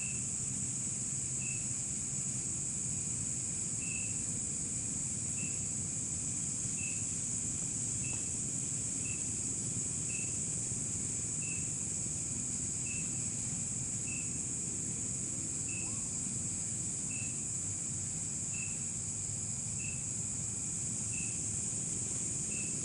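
Night insects calling steadily: a continuous high shrill drone, with a short chirp repeating about every second and a half, over a low steady rumble.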